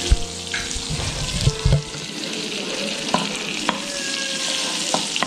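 Butter sizzling as it melts in a hot pan, with a few light clicks and knocks scattered through.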